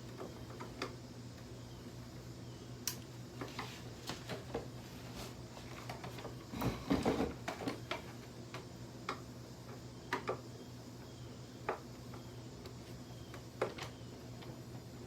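Scattered clicks and knocks from a Hoover vacuum's parts being handled and pulled at as it is dismantled, with a cluster of louder rattling knocks about seven seconds in, over a steady low hum.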